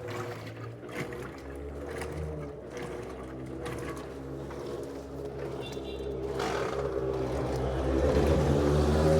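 Electrolux LED14 washing machine running: a steady motor or pump hum with water sloshing, growing louder over the last few seconds.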